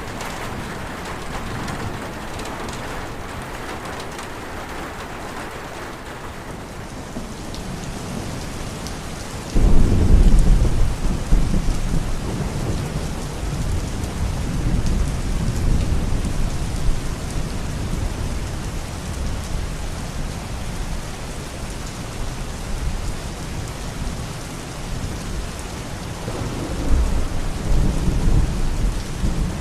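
Thunderstorm: steady rain hissing, with a sudden loud clap of thunder about a third of the way in that rolls on as a low rumble for several seconds, and another swell of rumbling near the end.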